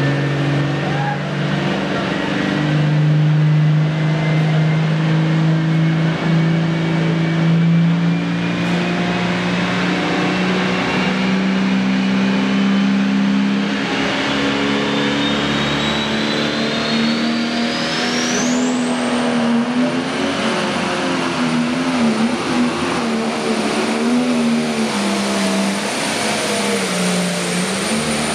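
Pro stock pulling tractor's turbocharged diesel engine running under full load. Its turbo whine climbs steadily in pitch for about eighteen seconds, then holds at a high, steady pitch. Meanwhile the engine note rises slowly and starts to waver and wobble in the last third.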